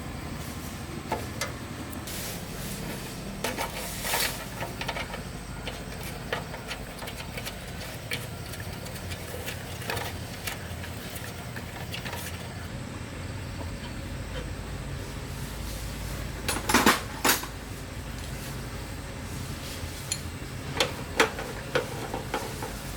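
Metal tools and engine parts clinking and clanking as they are handled, in scattered sharp knocks with a cluster of louder ones past the middle and more near the end, over a steady low hum.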